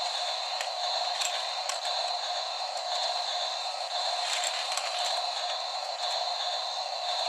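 Small battery-powered motors of toy racing-on-rails vehicles running on a plastic track: a steady high whir with a few scattered clicks.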